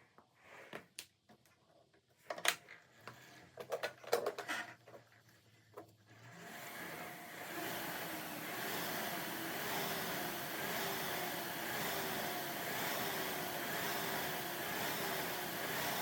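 Scattered knocks and clicks, then from about six seconds in an exercise machine running steadily: a whooshing noise with a faint falling tone that repeats about once a second.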